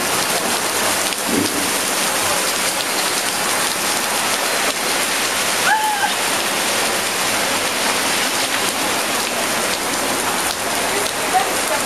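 Heavy rain pouring down on a city street and pavement, a dense, steady hiss. A brief high chirp rises and falls about six seconds in.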